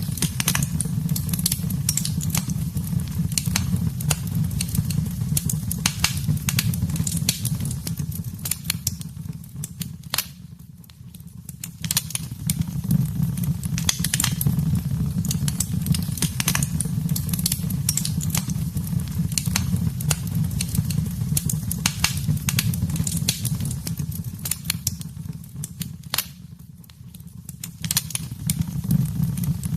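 Wood fire burning in a fireplace: dense, irregular crackles and pops over a steady low rumble of the flames. The fire's sound dips and fades briefly twice, around a third of the way in and again near the end.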